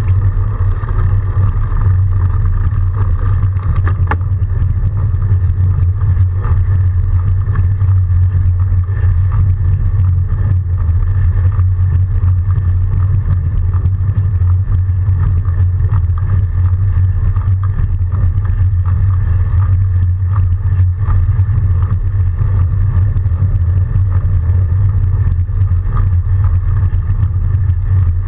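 Steady low rumble of an electric-assist fat bike being ridden through snow: wind and rolling noise carried on a bike-mounted camera, with no let-up.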